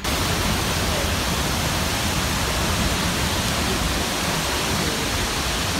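A large waterfall's falling water heard close by: a steady, loud, unbroken rush of noise.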